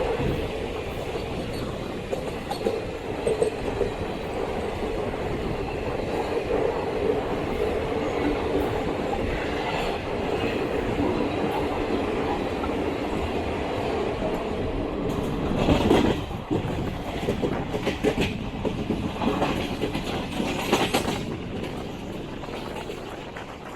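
Garib Rath Express train rolling slowly into the platform, its wheels clattering over the rail joints over a steady hum. Several louder clanks and squeals come in the last third, then it quietens as the train draws to a stop.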